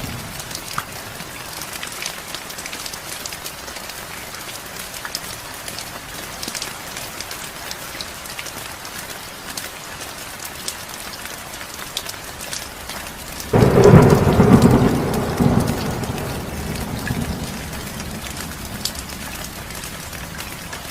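Steady heavy rain with scattered drop ticks. About two-thirds of the way in, a sudden loud clap of thunder breaks in and rumbles, fading away over several seconds.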